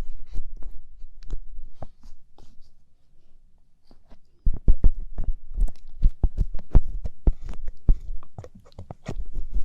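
Light-up ear pick scraping and clicking inside an ear microphone for ASMR ear cleaning: irregular close scratches with low muffled thumps, easing off for a couple of seconds near the start and then coming thick and fast again.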